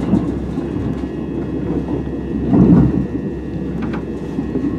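Steady low running rumble of a moving passenger train heard from inside the carriage, wheels running on the rails, with a brief louder swell around the middle.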